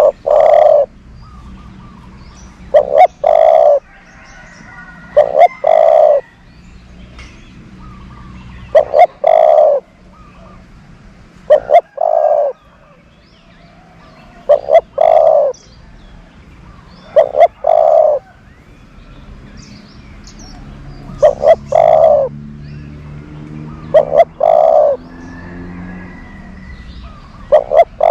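Decoy spotted dove cooing: a short note followed by a longer coo, repeated about every two and a half to three seconds.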